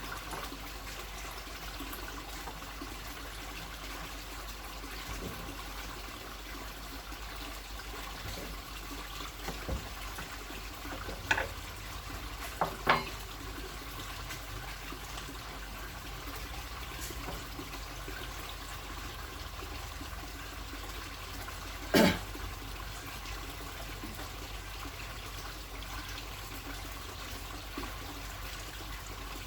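A steady rushing hiss with a few sharp knocks or clicks: one about eleven seconds in, two close together soon after, and a louder one about twenty-two seconds in.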